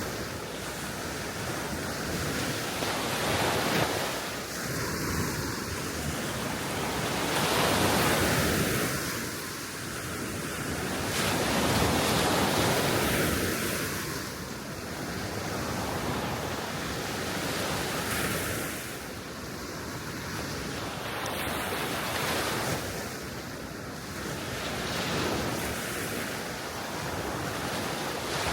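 Small sea waves washing onto the shore, the surf swelling and falling back every few seconds, with wind rumbling on the microphone.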